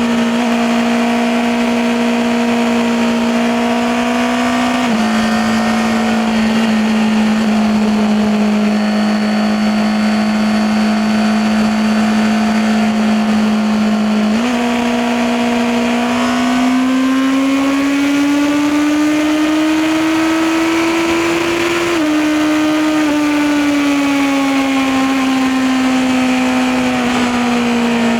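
Honda CBR650R's inline-four engine and exhaust under way: the engine note holds fairly steady with a small drop about five seconds in, then climbs steadily for several seconds as the bike accelerates, gives a brief step down, and eases gradually lower toward the end.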